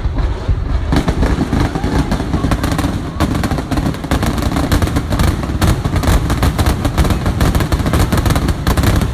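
Fireworks going off in a rapid barrage, many sharp bangs and crackles a second over a low rumble, starting about a second in.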